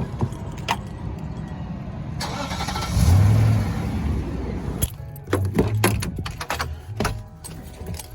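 A vehicle engine running with a steady low rumble, which swells into a louder surge about three seconds in. A string of sharp clicks and rattles follows in the second half.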